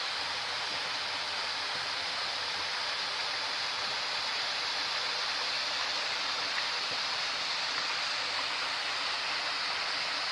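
Partly frozen waterfall running as it starts to thaw: a steady rush of falling water.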